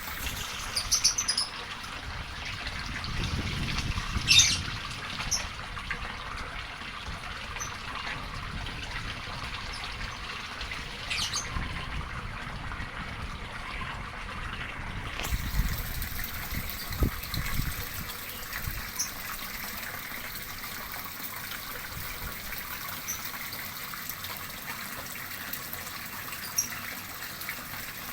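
Water running and trickling steadily, with a few short bird chirps scattered through.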